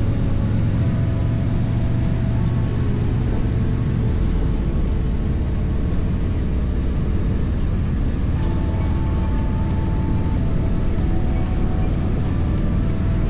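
Harley-Davidson Street Glide V-twin engine running steadily under way, with road and wind noise, and music playing over it.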